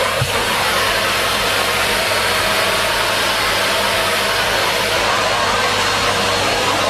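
Numatic Henry Pet vacuum cleaner running steadily, a loud even rush of suction noise with a faint steady whine underneath.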